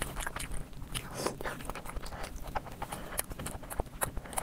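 Close-miked chewing of a mouthful of chicken fried rice, full of irregular wet clicks and smacks, with the squish of a hand mixing rice and curry on the plate.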